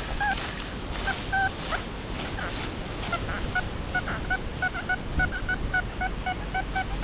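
XP Deus metal detector beeping in short, same-pitched tones over a target, sparse at first and then quickening to about three or four beeps a second, with wind noise on the microphone.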